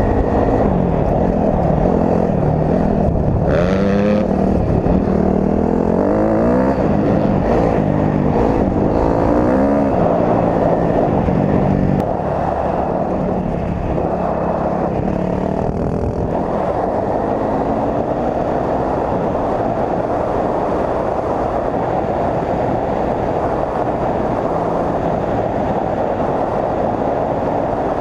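Honda CRF250R dirt bike's four-stroke engine running under riding load, its revs rising and falling again and again as the throttle opens and closes. It gets slightly quieter about halfway through.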